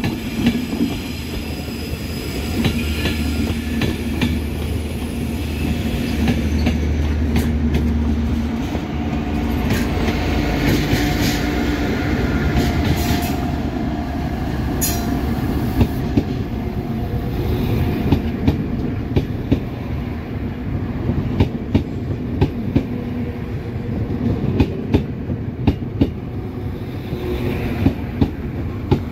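Passing Enterprise train hauled by a Class 201 diesel locomotive: a steady low drone from the engine over a continuous rumble of wheels on the track. A brief high wheel squeal comes about halfway, then a run of regular clicks as the wheels cross rail joints.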